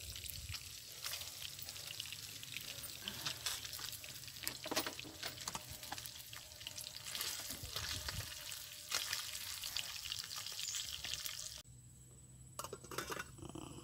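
Fish frying in hot oil in a pan, a steady sizzle dotted with crackles and pops. The sizzle drops away suddenly near the end.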